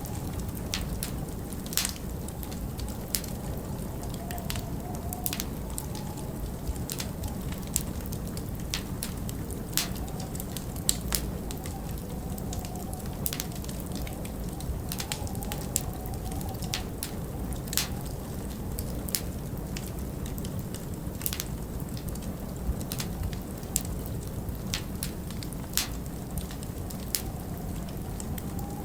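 Wood fire crackling, with irregular sharp pops about once or twice a second over a steady low rumble of winter wind, which now and then carries a faint wavering howl.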